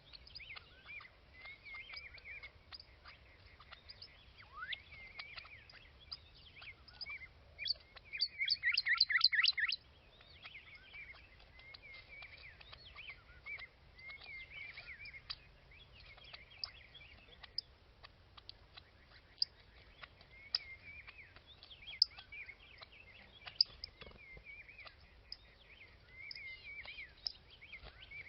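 Small birds chirping and twittering, with many short calls and scattered sharp ticks. About eight seconds in, one bird gives a loud, rapid run of repeated notes lasting about two seconds.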